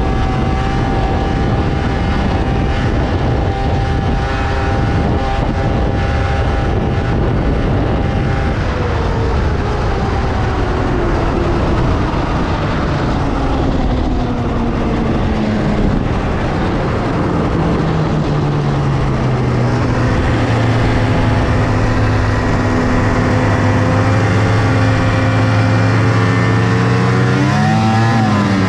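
1997 Polaris XCR 600 three-cylinder two-stroke snowmobile engine on stock triple pipes, holding high revs, then winding down steadily over about ten seconds as the sled slows. It settles to a low, steady run, with a quick blip of the throttle near the end.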